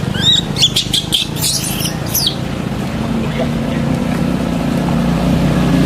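An engine running steadily, growing a little louder near the end, with a run of short, high squeaky chirps in the first two seconds.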